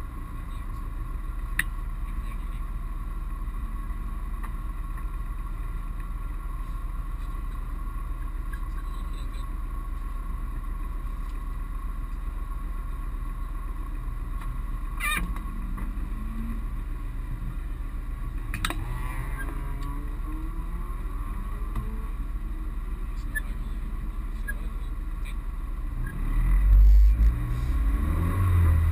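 Mitsubishi Colt rally car's engine idling steadily, heard from inside the stripped cabin, then revved up hard about 26 seconds in as the stage-start countdown runs down toward launch.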